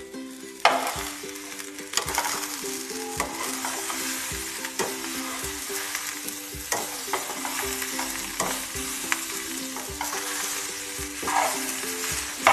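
Okra and onion masala frying in a metal kadhai, stirred with a metal spatula: a steady sizzle with repeated scrapes and clicks of the spatula against the pan.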